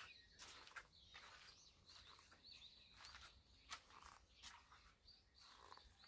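Near silence, with faint high chirps of small birds repeating every second or so, and a few light rustles and clicks of a phone being handled.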